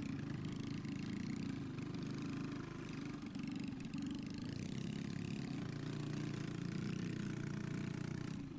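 Small single-cylinder minibike engines running steadily at a low, even pitch, with no sharp revving.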